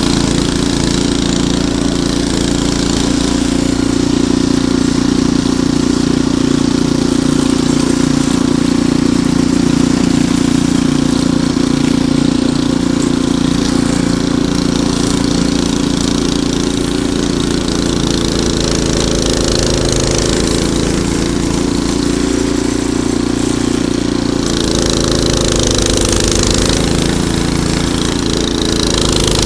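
Ariens Deluxe 28 snowblower's single-cylinder engine running steadily. Its note shifts, with more hiss, near the end.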